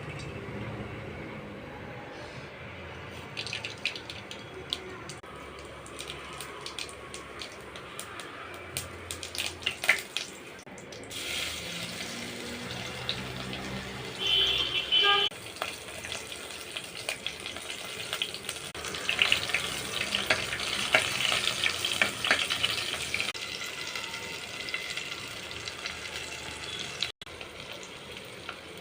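Water running and splashing into a vessel at a kitchen sink, with sharp clinks of metal utensils in between, while dal is being prepared.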